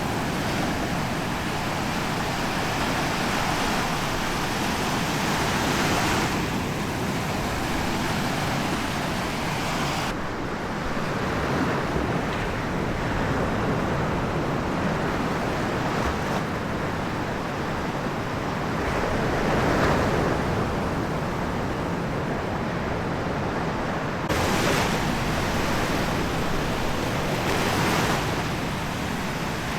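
Small waves washing onto a sandy beach: a steady rush of surf that swells and falls back every few seconds.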